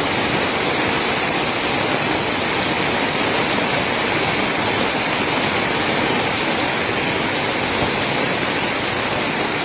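Steady rush of heavy rain and floodwater flowing down a street, an even loud noise with no breaks.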